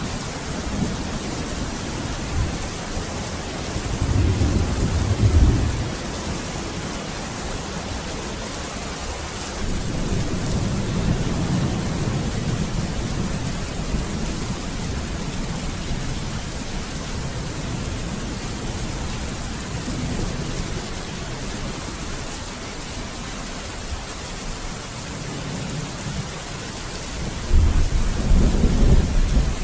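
Steady heavy rain with rolling thunder: low rumbles swell about four seconds in, again around ten seconds in, and loudest near the end.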